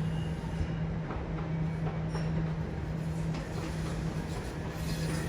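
Sydney electric suburban train running on the Carlingford line, a steady low hum over track rumble with a few faint clicks.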